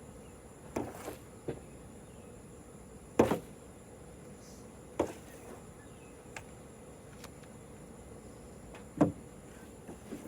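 Irregular knocks and taps, about eight in all, from hands working at a car's front bumper to free a trapped bird. The loudest come about three seconds in and near the end, over a steady high buzz.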